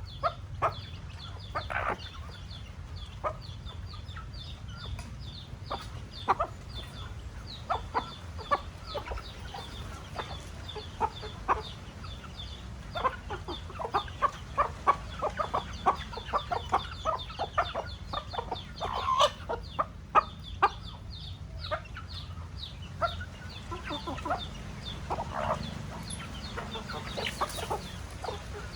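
Chickens clucking, many short clucks scattered throughout and thickest past the middle, over a steady low hum.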